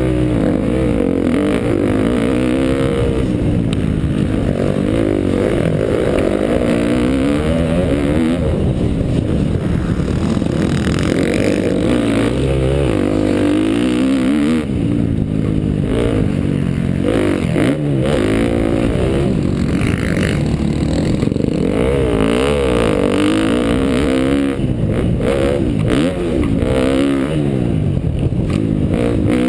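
2012 KTM dirt bike engine revving up and dropping back over and over as the bike is ridden, its pitch rising and falling with each burst of throttle.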